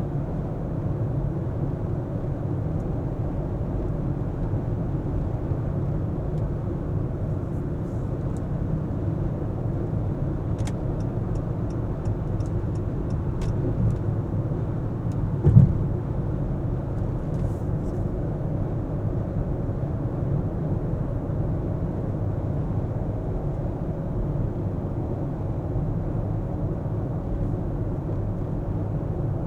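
Car driving on city streets: a steady low rumble of engine and tyre noise. About eleven seconds in comes a run of about eight light ticks, roughly two and a half a second. A few seconds later there is a single thump, the loudest moment.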